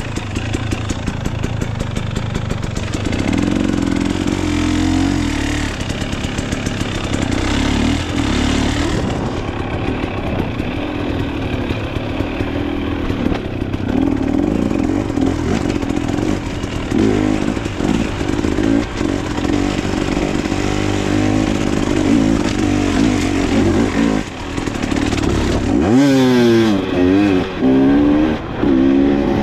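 Dirt bike engine revving up and down while being ridden off-road, with a run of quick rises and falls in pitch near the end.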